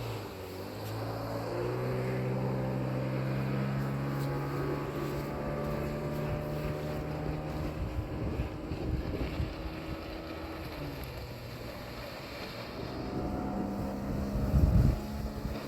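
An engine running steadily, its pitch stepping up about a second in and dropping about eight seconds in. Wind buffets the microphone near the end.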